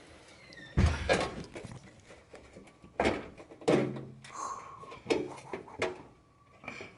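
Several dull metallic knocks and clunks, about six spread irregularly, as an aftermarket exhaust pipe section is pushed and fitted into place under a car.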